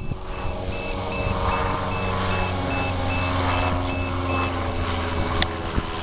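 Walkera V450 electric RC helicopter in flight: the steady hum of its main rotor and brushless motor with a higher whine over it. A faint high beep repeats evenly throughout.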